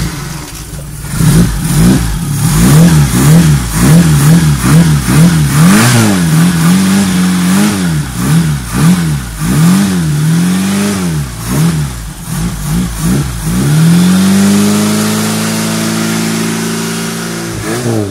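Fiat 147 engine being revved by hand while parked: quick rev blips, rising and falling about once a second for most of the stretch. Near the end the engine is held at steady raised revs for a few seconds.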